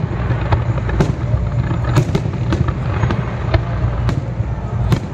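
Fireworks display: aerial shells bursting and crackling in a rapid, irregular string of bangs, several a second, over a steady low rumble.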